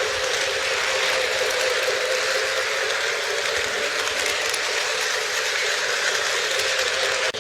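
O gauge model train with Union Pacific F-unit locomotives running on track: steady rolling and motor noise from wheels and mechanism, without a break.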